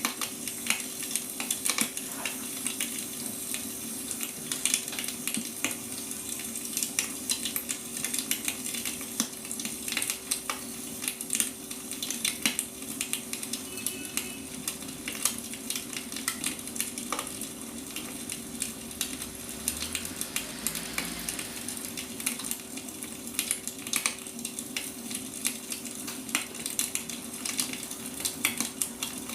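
Firewood burning with frequent irregular crackles and pops over a steady hiss. A steady hum runs underneath.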